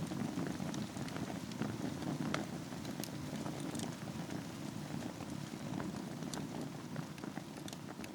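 Wood fire burning in a fireplace: a steady low rumble of flames with scattered sharp crackles and pops, a few each second.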